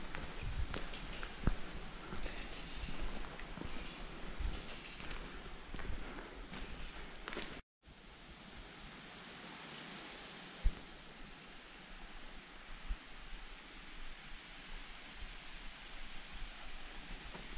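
A small bird repeating a short, high, single-pitched chirp over and over, a couple of times a second, with footsteps on the path mostly in the first half.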